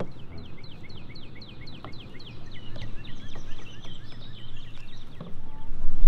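A songbird singing a fast trill of short downslurred notes, about five a second, breaking after about three seconds into a looser run of chirps. A low steady rumble runs underneath.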